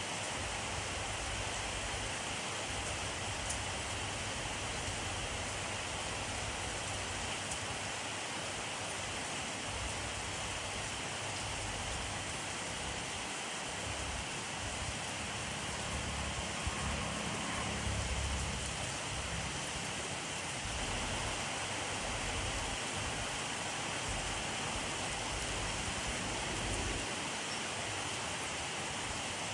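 Steady rainfall, a dense even hiss of drops falling on surfaces. A low rumble swells briefly about halfway through.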